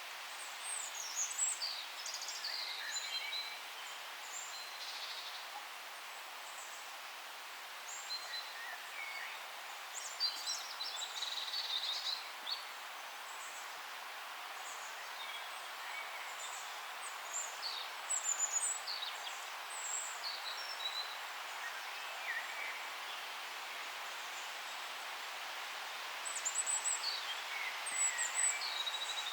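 Several songbirds chirping and trilling in short bursts over a steady hiss of forest background noise, with quieter gaps between the bursts.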